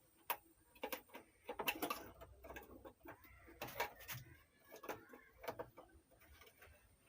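Irregular small metallic clicks and taps of hand tools working on an amplifier chassis, unfastening the driver board.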